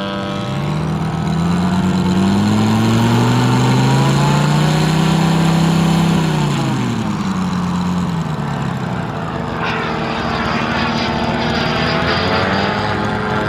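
Moki radial engine of an RC Corsair running in flight. Its pitch climbs over the first few seconds, then drops steeply about six to seven seconds in, like a plane passing by, and rises again near the end.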